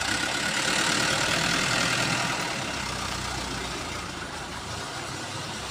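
Mitsubishi Canter dump truck's engine running while it raises its tipper body, with a steady hiss that is loudest in the first few seconds and then eases off.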